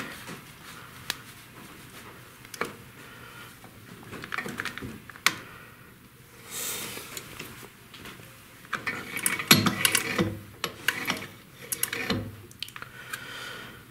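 Metal clicks and rattles as the quill return spring of a 1930s Delta DP220 drill press is wound and set for tension. The clicks are scattered, with two busier runs in the second half.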